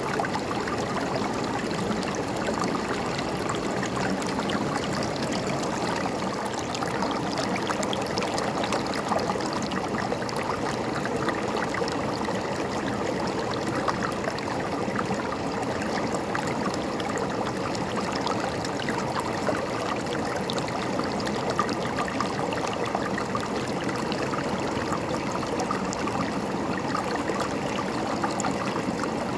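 A river or stream running steadily, the water gurgling and splashing over rocks.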